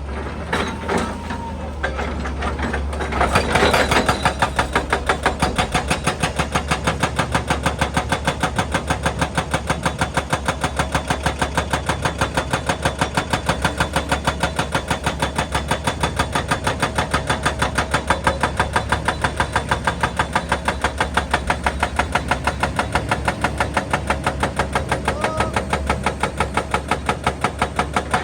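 Excavator engine running, then from about three seconds in a hydraulic breaker hammering rock in a rapid, steady run of blows that keeps going.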